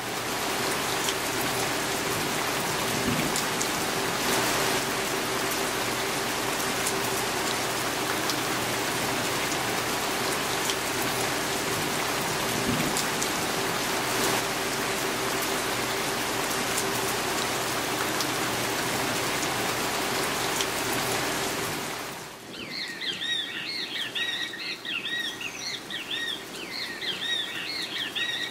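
Steady rain falling, an even hiss with a faint steady hum under it. About 22 seconds in it cuts off abruptly and a bird calls over and over in quick, high, arched notes.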